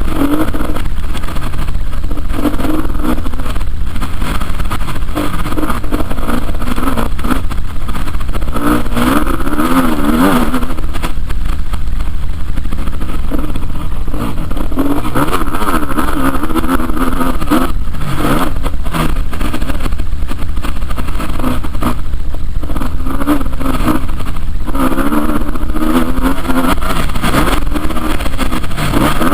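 Motocross motorcycle engines revving up and down, their pitch rising and falling over and over and swelling louder several times as bikes pass, over a steady low rumble.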